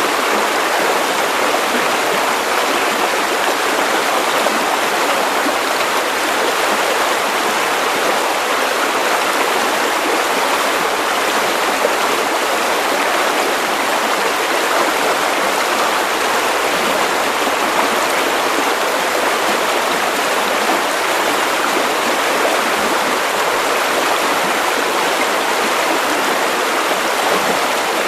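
Steady white noise: an even, unchanging hiss with little deep bass.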